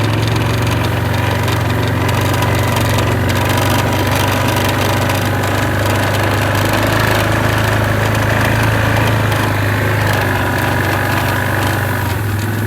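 A vehicle's engine running steadily at an even pace as it drives along, with a constant low hum.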